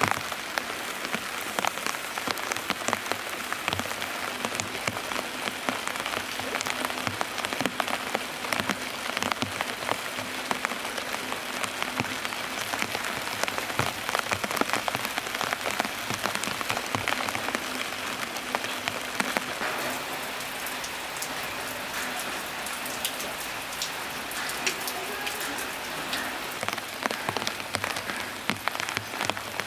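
Steady rain falling, with many close drops ticking sharply on hard and wet surfaces.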